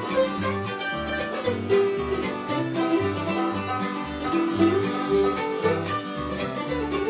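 Bluegrass band playing an instrumental break between verses: banjo, guitar and fiddle over a bass keeping a steady beat.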